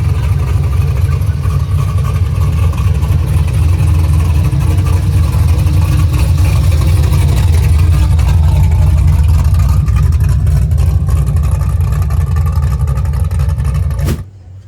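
Loud car engine running with a deep rumble, its pitch drifting slightly up and down; it cuts off suddenly near the end.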